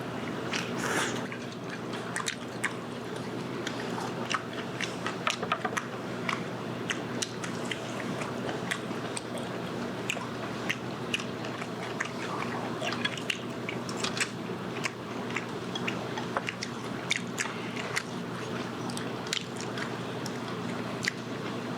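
Close-up chewing and biting of charcoal-grilled pork belly wrapped in pickled wild garlic leaves, heard as many short clicks throughout, over a steady low hum.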